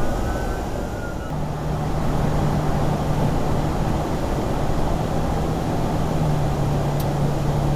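Steady road and engine noise from a vehicle driving, heard from inside. A constant low hum comes in about a second in, and there is a single sharp click near the end.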